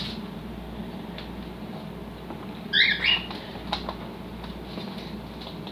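Cockatiels chirping: a couple of short, rising-and-falling chirps about three seconds in, with a few faint clicks.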